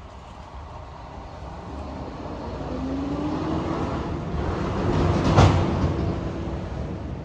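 A road vehicle passing on the street: its engine and tyre noise grow louder, peak about five seconds in, then fade away.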